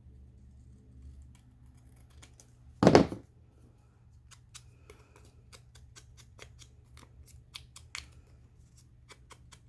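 Craft scissors snipping paper, a run of quick, sharp cuts in the second half. About three seconds in there is one brief, louder knock or rustle.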